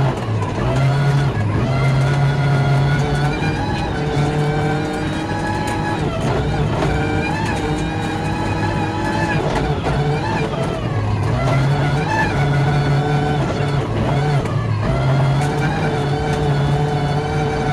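Ford Focus RS WRC's turbocharged four-cylinder engine running hard, heard from inside the cockpit, its pitch rising and falling slowly with road speed rather than jumping with gear changes: the gearbox is stuck in sixth gear.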